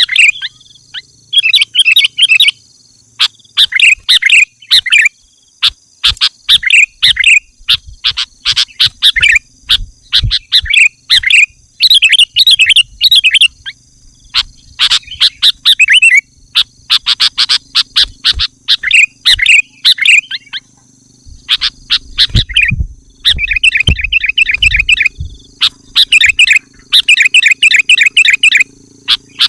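Sooty-headed bulbul (kutilang) singing loudly in short, bubbly phrases repeated every second or two, turning in the last third to faster runs of quick, even notes.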